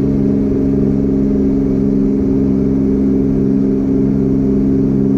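The twin-turbo Mazda MX3's two V6 engines running together at a steady cruise, heard from inside the car: a loud, even drone that holds one pitch, with no revving or shifting.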